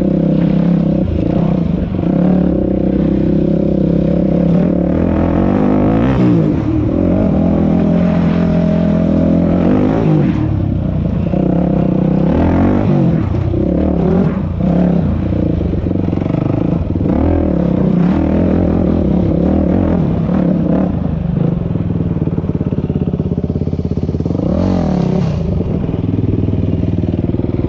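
Dirt bike engine being ridden hard, its pitch rising and falling again and again as the throttle is opened and closed.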